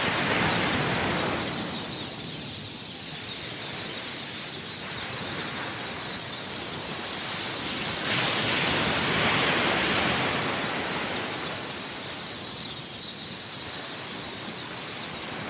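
Sea surf washing onto a beach: a steady rush of water noise that swells twice, at the start and again about eight seconds in.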